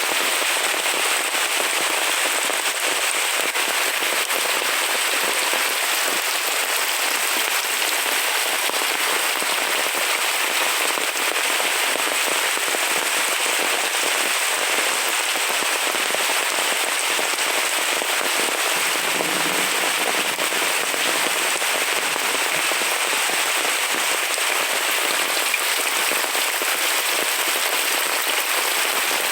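Heavy rain falling steadily, a dense, even crackling patter of drops on surfaces.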